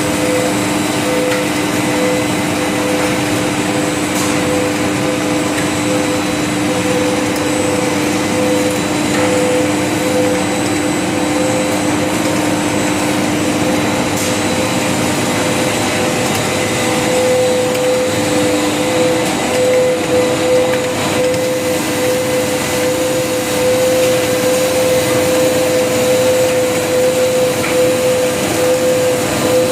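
ABS/HIPS plastic sheet extrusion line running: a loud, steady machinery drone with a constant hum and a thin high whine.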